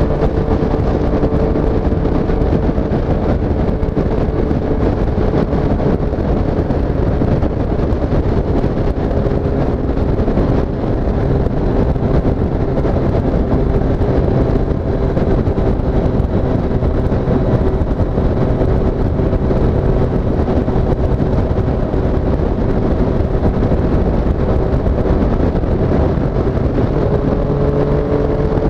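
2017 Triumph Street Triple S's 765 cc inline three-cylinder engine running at a steady cruise. Its pitch sags slowly, then climbs again near the end as the bike picks up revs.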